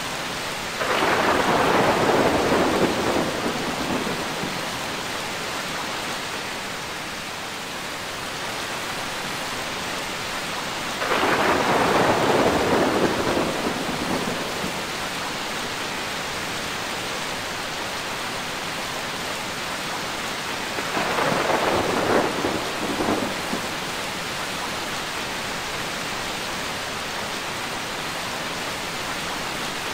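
Steady rain with three rumbles of thunder about ten seconds apart, each breaking in suddenly and fading over a few seconds; the third comes as a few quick cracks.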